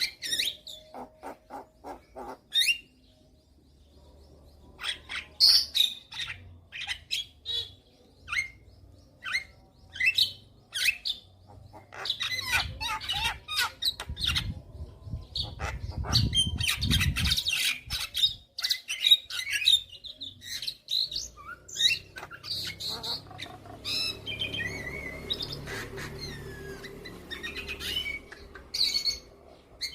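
Javan myna calling in a rapid, irregular series of short harsh squawks and chirps with brief pauses. A low rumble sits under the calls about halfway through.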